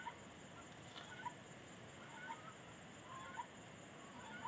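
Several faint, short bird calls, scattered and irregular, from a fowl-like bird that the people present take for a chicken.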